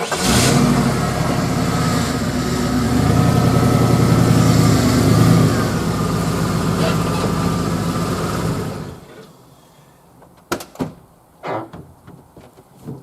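Ford F-150 pickup engine starting and running roughly for about nine seconds, getting louder in the middle with a little revving, then shut off suddenly; it sounds terrible, running on a replacement ECM board tuned for a different engine. A few knocks follow after it stops.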